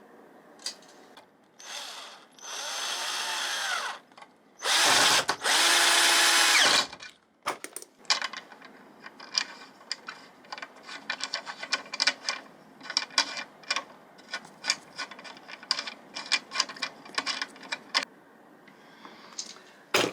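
Power drill running in two bursts of about two seconds each, its motor pitch shifting, the second burst louder. Then many irregular light clicks and taps.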